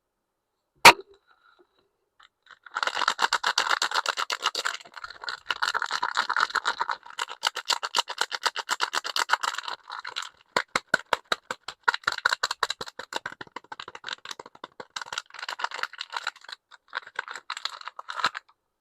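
A sharp click about a second in, then a soap wrapper being unwrapped: dense, rapid crackling of stiff paper or plastic packaging in several stretches.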